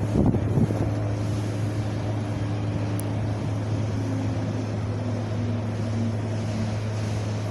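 Wind blowing steadily: a deep, constant low rumble under an even hiss, swelling briefly in the first half second.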